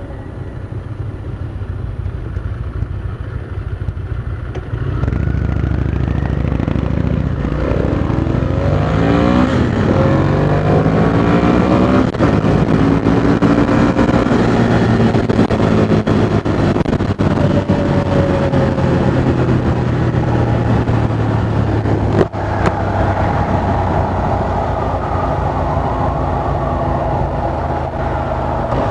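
Motorcycle engine, the rider's own Ducati Monster 620 air-cooled V-twin, running under way. It gets louder about five seconds in, then its pitch rises several times as it accelerates through the gears before settling to a steadier cruise.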